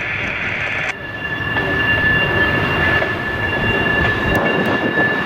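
A freight train rolls past with a steady rumble of wheels on rail and a steady high-pitched tone running over it. A hiss stops abruptly about a second in.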